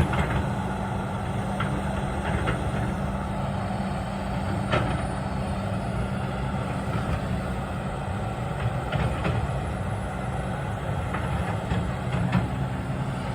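Engine of a construction tractor running steadily at a low, even hum, with a few short knocks.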